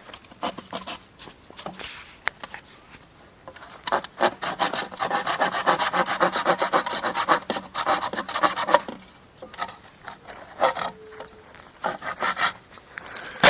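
Bamboo being cut by hand for marshmallow skewers, with rasping back-and-forth strokes: scattered at first, then fast and steady from about four to nine seconds in, then sparser again.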